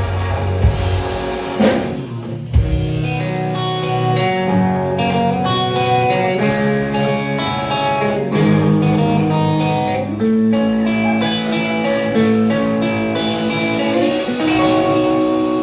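Live rock band's instrumental ending after the last sung line: guitar playing picked melody notes. The bass and drum hits drop out about two and a half seconds in, leaving the guitar ringing on.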